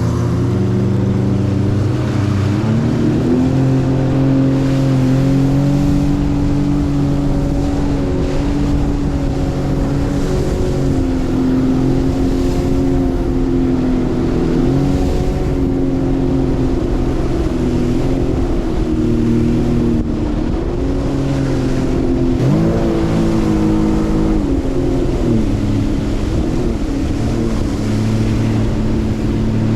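Watercraft engine running under way, loud and steady, its pitch stepping up and down with throttle changes and rising quickly about two-thirds of the way through, over a wash of wind and water noise.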